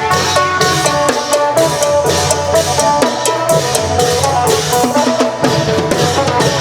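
Isan klong yao long-drum band playing, drum and cymbal strikes on a steady beat under a plucked phin melody.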